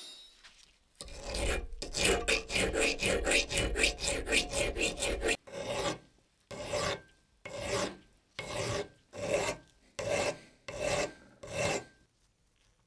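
Rust being scraped off a corroded pocket knife by hand with an abrasive, in rasping back-and-forth strokes. The strokes start quick and close together about a second in, then slow to separate strokes of roughly two a second, which stop shortly before the end.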